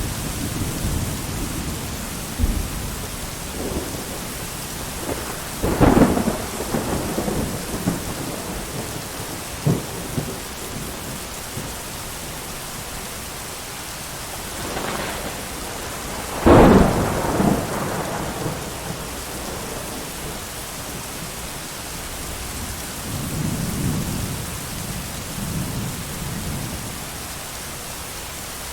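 Steady heavy rain with thunder. Two loud, sharp thunderclaps, about a fifth of the way in and just past halfway, each trail off into a rolling rumble, and softer rumbles of thunder come near the end.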